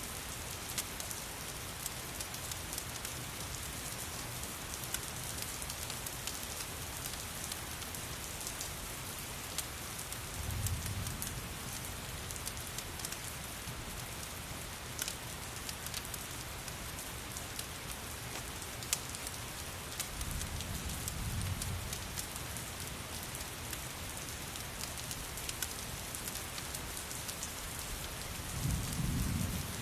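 Steady rain with a crackling fire mixed in: an even hiss of rain, scattered sharp crackles and clicks, and three brief low rumbles, about ten seconds in, around twenty seconds and near the end.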